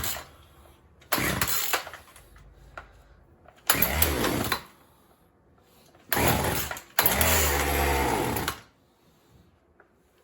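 Poulan Pro 4620 two-stroke chainsaw engine catching briefly and dying out, four times in a row, the last run lasting a little longer. It runs sporadically, typical of a janky carburettor still being tuned.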